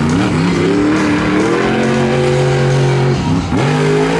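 Monster truck engine revving hard. It climbs in pitch for over a second, holds high and steady, drops off briefly after about three seconds, then revs up again near the end.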